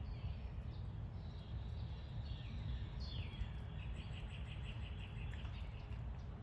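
Birds calling faintly over a steady low rumble: a few falling chirps, then a sharp downward call about three seconds in that runs straight into a rapid trill lasting about two seconds.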